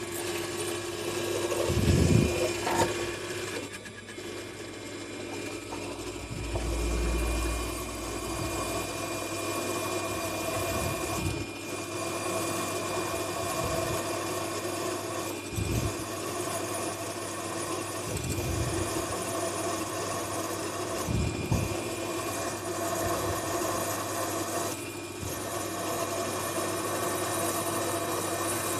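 Electric drill motor running steadily while drilling an 8 mm hole through a welded-on fitting's thread, with a few short low knocks along the way.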